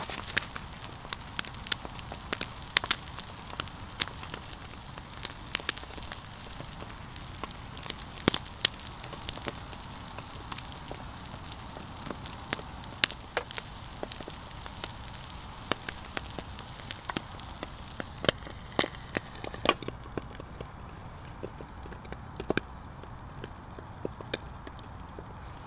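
Bacon and egg omelette frying in a RidgeMonkey sandwich toaster: a steady sizzle scattered with sharp pops and crackles of spitting fat. The sizzle thins about twenty seconds in while the pops carry on.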